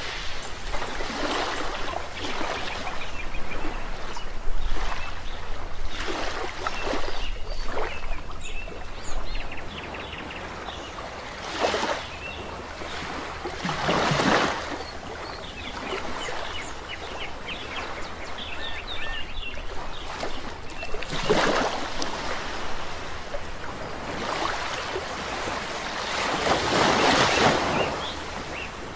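Sea waves washing in on a shore, swelling and falling back every few seconds, the biggest surges near the middle and near the end. Small birds chirp faintly over the surf.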